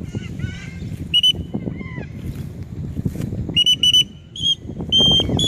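A whistle blown in a series of short, steady-pitched high blasts, several in quick pairs, over a low background rumble.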